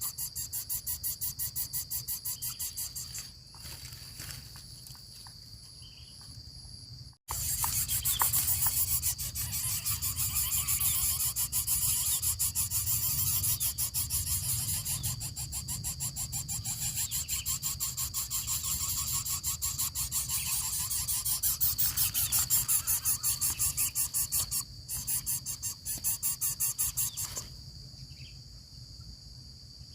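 Insects trilling in a dense, high-pitched chorus of rapid pulses over a steady high whine, breaking off abruptly about seven seconds in and resuming moments later.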